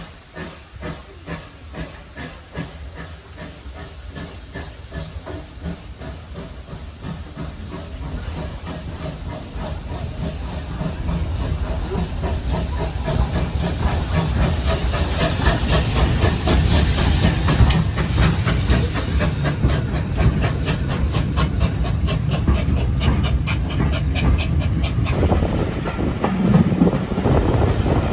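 Steam locomotive working, its exhaust beats quickening and growing steadily louder, with a loud hiss of steam around the middle.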